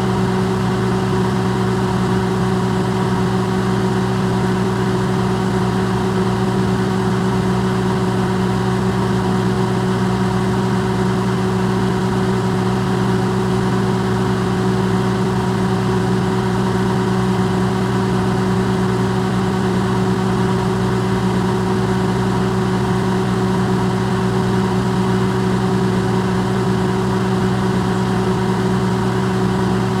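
Electrolux microwave oven running, recorded close and amplified: a steady, unchanging hum of a few fixed low tones over an even whir.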